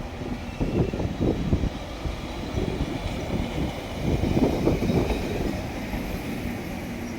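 Small 762 mm narrow-gauge electric train of the Sangi Railway Hokusei Line running, heard as an uneven low rumble of wheels on track with irregular thumps.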